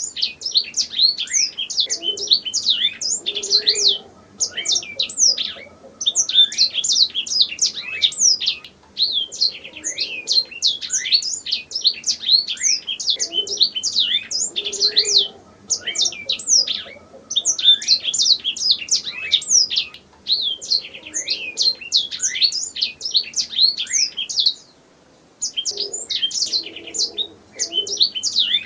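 Domestic canary singing: long phrases of rapid, high chirps and trills, broken by short pauses every few seconds.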